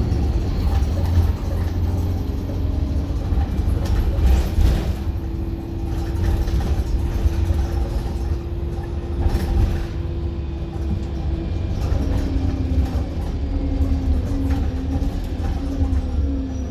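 Stagecoach London bus heard from on board while driving: a heavy engine and road rumble with a steady drivetrain whine, which drops lower and wavers about twelve seconds in, and a few brief rattles and knocks.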